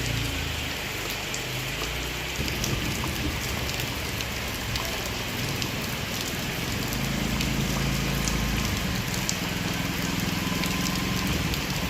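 Heavy rain falling steadily, with many sharp drops pattering close by. A low hum joins in during the second half.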